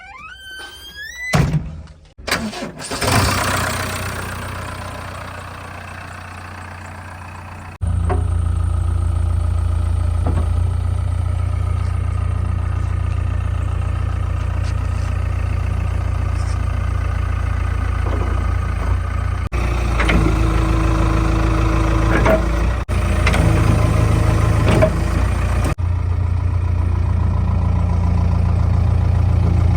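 Diesel engine of heavy earth-moving machinery running with a deep, steady drone, starting abruptly about eight seconds in. Before it come a few rising pitch sweeps and loud knocks.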